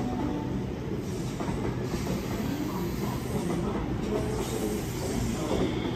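Double-deck Sydney electric suburban train approaching along the platform, giving a steady rumble of wheels on the rails, with a faint high squeal near the end.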